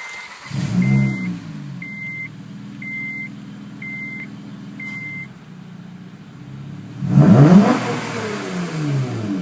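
2007 Acura TL Type S's 3.5-litre V6 on an XLR8 aftermarket exhaust starting up with a short flare and settling to idle, while a warning chime beeps about once a second. About seven seconds in the engine is revved hard, and the revs fall back over the next two seconds.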